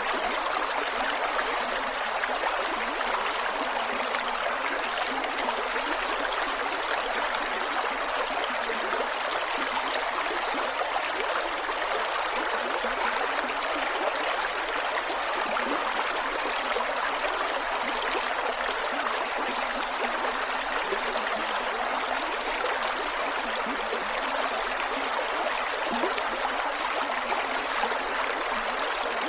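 Creek water flowing and gurgling over rocks, a steady rushing babble with fine splashing detail.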